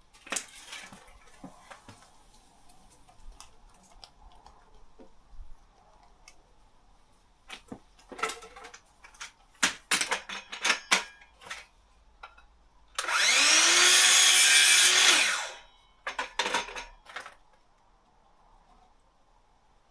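Power drill running for about two and a half seconds, spinning up, holding speed and winding down, amid knocks and clatter of wood and tools being handled.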